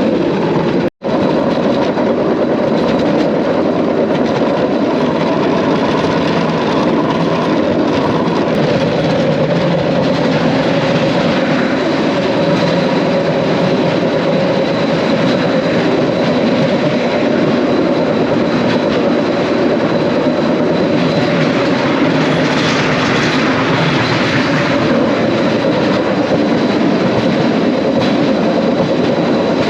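A bamboo train (norry) running along its track: the small motor and the wheels on the thin rails make a steady, loud running noise. It cuts out for an instant about a second in.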